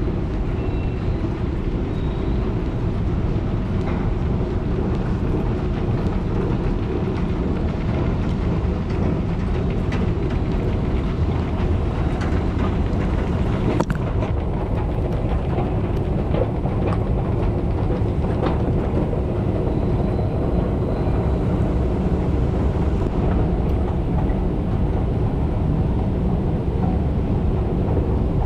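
Train running with a steady, low rumble, with a sharp click about fourteen seconds in.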